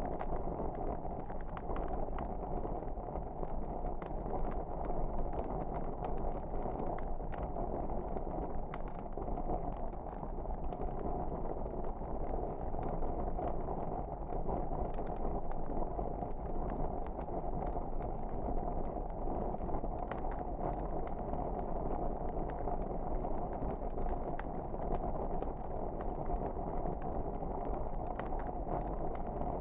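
Wood fire burning in a fireplace: a steady low rush of flames with many small, scattered crackles and pops.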